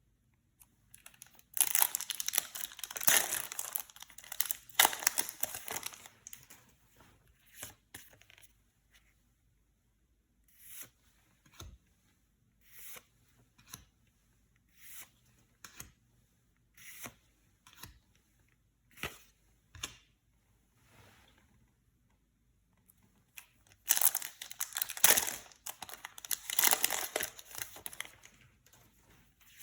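Yu-Gi-Oh! booster pack wrappers being torn open and crinkled, in two long bursts near the start and near the end. Between them come short, separate crinkles and snaps every second or two as the packs and cards are handled.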